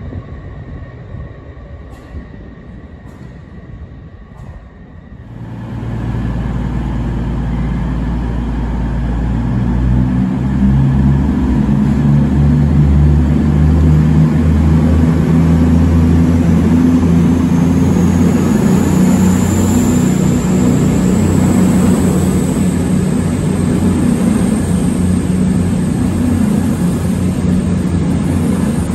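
A CrossCountry Voyager diesel multiple unit passing through the platform. The sound swells suddenly about five seconds in as the train arrives, then stays loud as the carriages go by: a deep, steady drone from its underfloor diesel engines mixed with wheel and rail noise. Midway through there is a faint rising whine.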